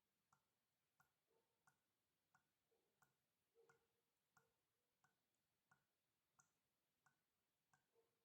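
Faint water drips falling in a steady, even rhythm, about three drops every two seconds, each a sharp tap. A few drops carry a short hollow plop after the tap.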